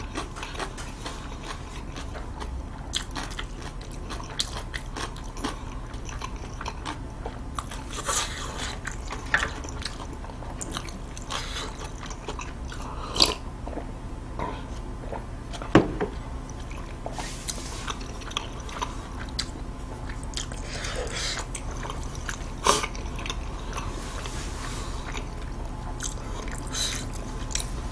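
Close-miked chewing of food, with scattered soft mouth clicks and a few sharp louder ticks.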